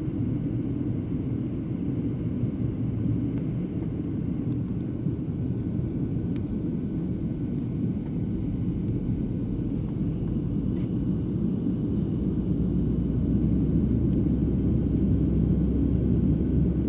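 Steady cabin noise of an airliner in flight: a low rumble of engines and rushing air. The deepest part of the rumble grows a little louder about twelve seconds in.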